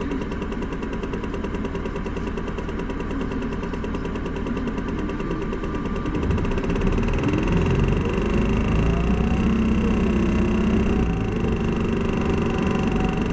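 Isuzu Erga city bus's four-cylinder diesel engine idling, then about six seconds in pulling away: the engine note grows louder and rises and falls several times as the bus accelerates through its gears.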